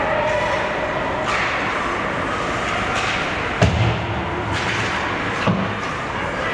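Ice hockey play in an arena: a sharp bang against the rink boards about halfway through, with a short low rumble after it, and a smaller knock near the end, over steady arena noise.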